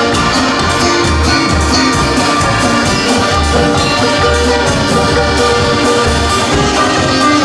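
Live band playing an instrumental passage with a steady beat and bass line, no singing.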